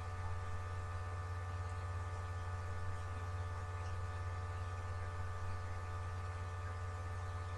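Steady electrical hum: a low buzz with a stack of fainter, even tones above it, unchanging throughout.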